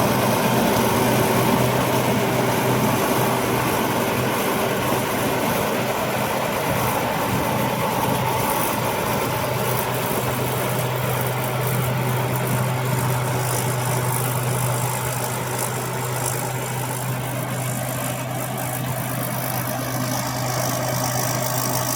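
Rice combine harvester's engine running steadily, a constant low hum under a wash of machine noise.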